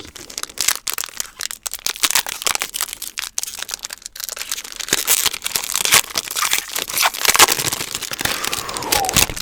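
Foil and plastic packaging being crinkled and crackled, a dense run of quick crackles that keeps going with small swells in loudness.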